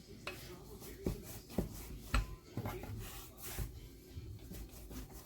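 Kitchen handling noises: half a dozen knocks and clacks of things being set down or moved, the loudest about two seconds in, with some rubbing and scraping between them.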